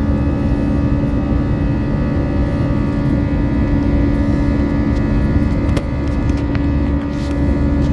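Airbus A321-200's jet engines running, heard from inside the cabin: a steady rumble with several steady whining tones over it, and a few light clicks about six seconds in.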